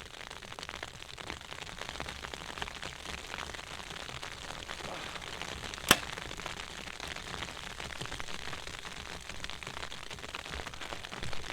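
Mathews Phase 4 compound bow shot once about halfway through: a single sharp snap of the string on release, with another snap right at the end. A steady hiss from the snow storm runs underneath.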